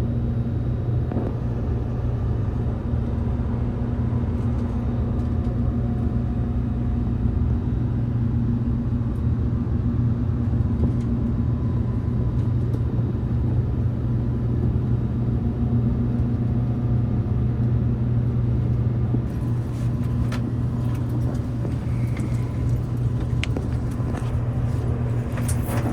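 Cabin noise of the Relay Kamome electric limited express running along the line: a steady low rumble and hum with an even wash of rolling noise, and a few faint clicks near the end.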